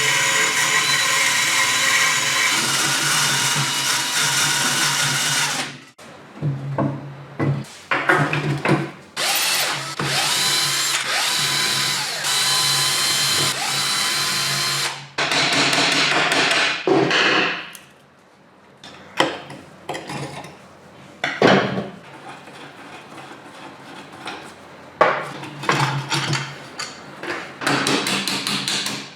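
A handheld electric power tool running in several long spells, its pitch dipping and recovering under load, with short knocks and clinks of tools and metal parts in between.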